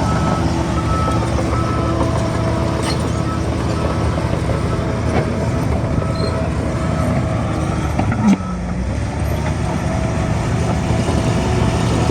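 Heavy earthmoving machinery's diesel engine running steadily, with a reversing alarm beeping on and off and a single sharp knock about eight seconds in.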